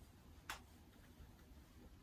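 A single light click about half a second in, against near silence.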